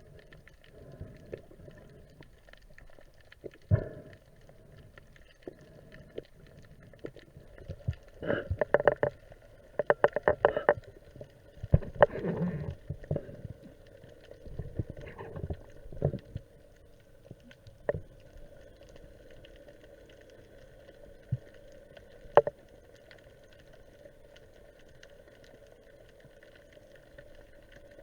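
Sound recorded underwater while spearfishing: a faint steady hum with scattered sharp knocks and rattling clicks, bunched into clusters about a third of the way in, then single knocks now and then.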